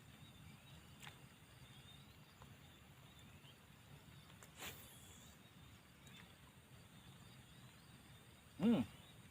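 Quiet outdoor ambience with faint high chirps, a sharp click about a second in, a brief swish about four and a half seconds in, and a short voiced sound near the end.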